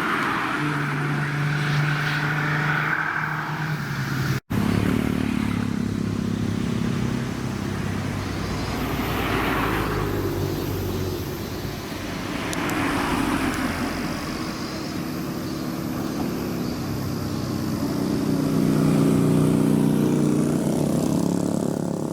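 Car engine running, its pitch falling off and later rising again, with a brief break in the sound about four seconds in.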